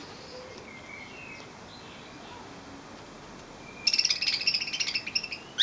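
Budgerigars chirping faintly, then from about four seconds in a loud burst of rapid chattering calls as one male squabbles with and chases off a rival male.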